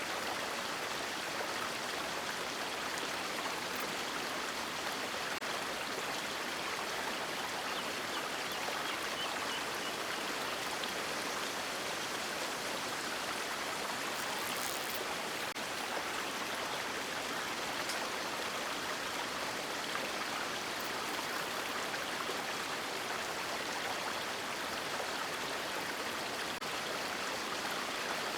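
River water rushing in a steady, even wash, with no change in level.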